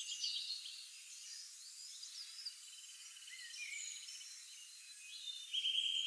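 Birds chirping and calling, with short rising and falling chirps, a soft trill in the middle and a loud trill setting in about five and a half seconds in.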